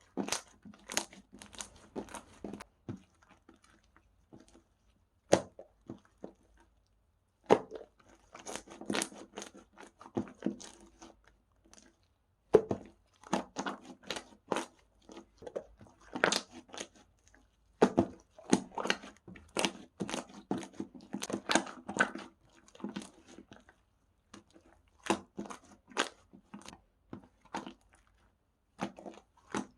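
Slime being squished and worked by hand, giving rapid sticky clicks and pops in clusters, broken by a few short pauses.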